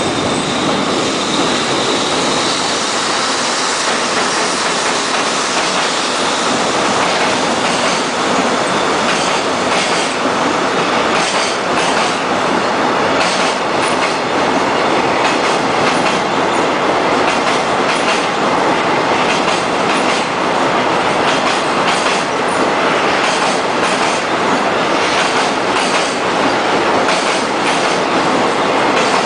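JR Freight container train of Koki flat wagons rolling past at speed: a steady loud rumble of steel wheels on rail, with clickety-clack of wheelsets over rail joints coming through more clearly after about ten seconds. A thin high wheel squeal sounds in the first few seconds.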